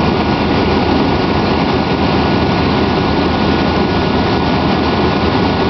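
Vehicle engine running steadily, loud and unchanging: the jump-started truck's engine now keeping itself running.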